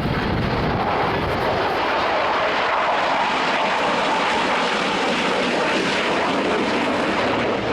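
Military display aircraft flying past with a steady, loud engine noise.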